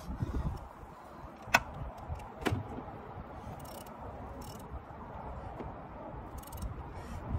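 Work noise from hands and tools handling parts: low knocking and shuffling, with two sharp clicks, the louder about a second and a half in and another a second later.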